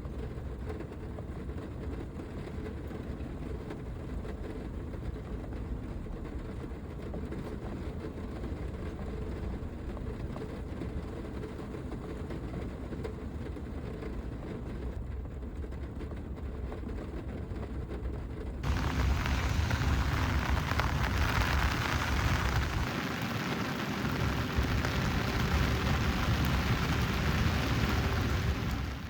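Heavy rain on a van, heard as a steady low rumble. About two-thirds of the way in it changes suddenly to a louder, brighter hiss of rain that cuts off at the end.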